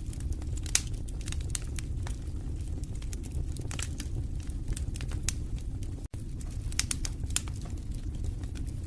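Wood fire in a fireplace crackling: irregular sharp pops and snaps over a steady low rumble of the flames. The sound cuts out for an instant about six seconds in.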